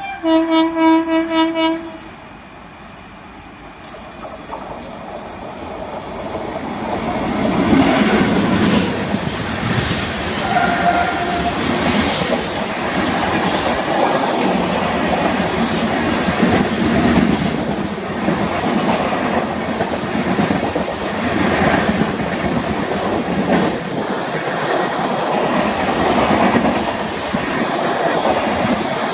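A locomotive horn sounds once for about two seconds, a single wavering note. Then an Indian Railways express train approaches and passes at speed, a loud rumble with its wheels clattering.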